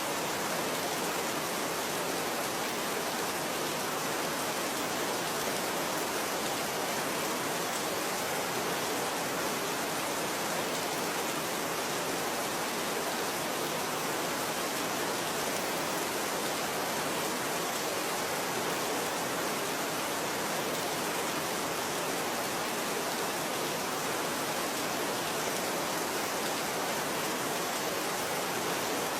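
Steady rain falling, an even unbroken hiss with no single drops or thunder standing out.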